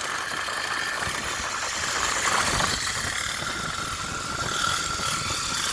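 Motorbike engine idling steadily.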